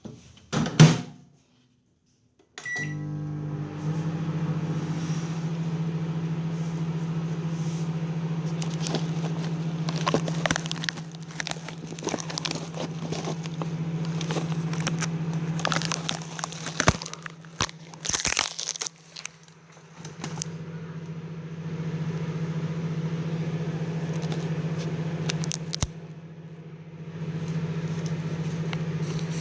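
Microwave oven beeps once as it is started, then runs with a steady low hum. Scattered clicks and clatter sound over the hum in the middle, and the hum dips briefly a couple of times.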